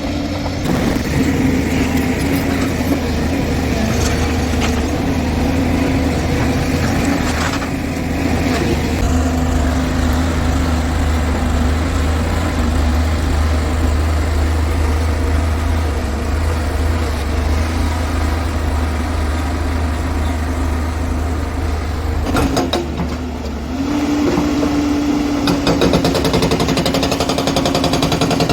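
JCB excavator's diesel engine running steadily under load while it works rock, with a few knocks of rock being struck. The engine note rises and picks up near the end.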